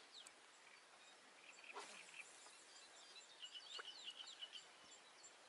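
Faint birdsong in the quiet: a few short chirps that glide up and down, then a quick run of chirps about three and a half seconds in, with a single soft click near two seconds in.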